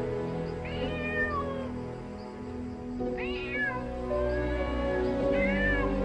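An animal calling three times, each short call sliding down in pitch, over soft background music.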